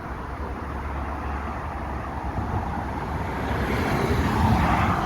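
Street traffic: a steady rumble of road noise, swelling as a motor vehicle passes, loudest near the end.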